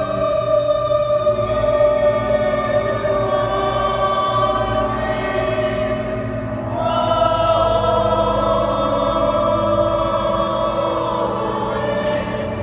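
Choir singing slow, long-held notes in several parts, moving to a new chord about seven seconds in.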